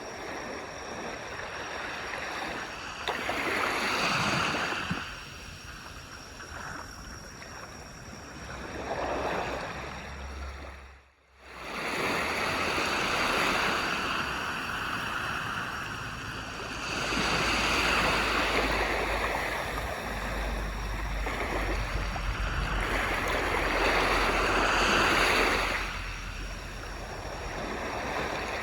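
Ocean waves breaking and washing up a beach, swelling and ebbing every few seconds in an uneven rhythm. The sound drops out briefly about eleven seconds in.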